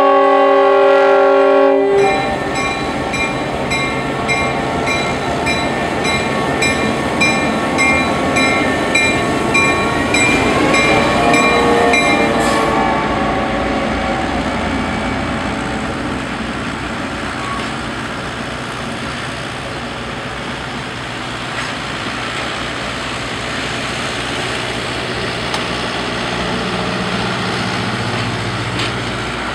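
Diesel locomotive air horn holding one blast that cuts off about two seconds in. A grade-crossing bell rings about twice a second until roughly twelve seconds in. Alongside it the EMD GP9 diesel locomotive passes, then the steady rumble and clatter of passenger cars rolling by on the rails.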